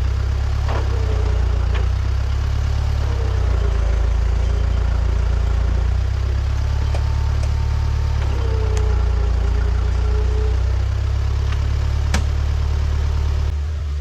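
Heavy machinery engine running steadily under load, with a whine that rises and falls every couple of seconds, typical of hydraulics being worked, and a few sharp metal clanks. The sound changes abruptly near the end.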